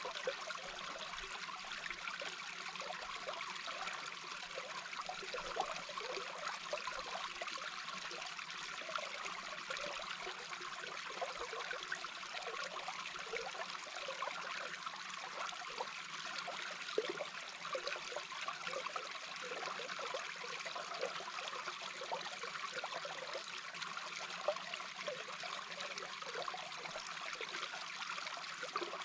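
A small brook's flowing water heard underwater: a steady, even rush of water full of fine bubbling.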